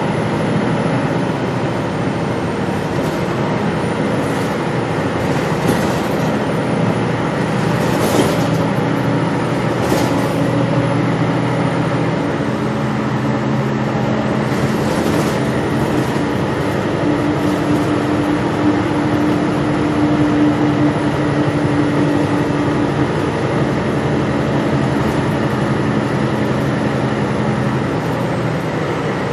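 Gillig Low Floor transit bus heard from inside while riding: a steady engine and drivetrain drone with road noise, and no HVAC fan running. A deeper hum comes in about twelve seconds in and swells midway before dropping away near the end, with a few brief rattles and a faint high whine on top.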